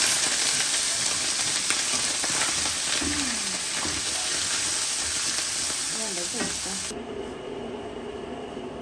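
Meat sizzling as it is sautéed in a hot pot for pilau. The sizzle drops off sharply about seven seconds in.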